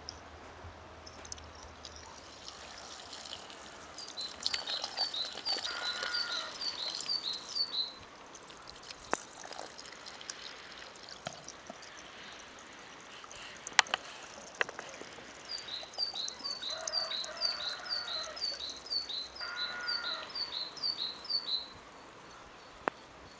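A songbird singing two long series of short, repeated high notes, about three notes a second, with a pause between the series. A couple of sharp clicks come near the middle.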